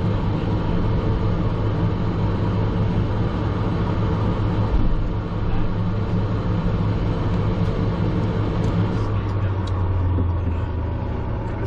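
Learjet 45XR cockpit noise: a steady low drone from its two turbofan engines over a wide rushing hiss, with a single thump about five seconds in. The drone drops slightly in pitch and level near the end.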